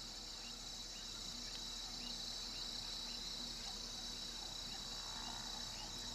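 Faint steady chorus of insects, high-pitched and unbroken, with soft short chirps repeating about twice a second.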